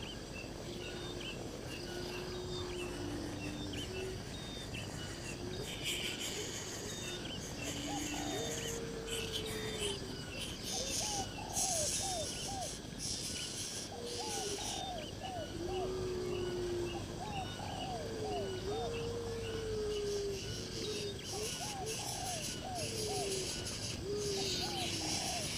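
Birds calling over an insect chorus: low whistled notes, some held and some gliding up or down, mixed with quicker, higher chirps in runs of two to four. Faint high chirps repeat throughout over a steady insect buzz.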